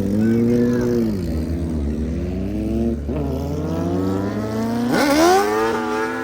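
Car engine revving hard, its pitch dipping and climbing several times, then sweeping up sharply about five seconds in and holding high.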